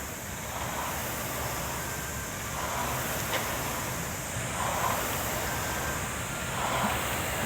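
Rowing machine's fan flywheel whooshing at a steady stroke rate, swelling about every two seconds as each pull spins it up.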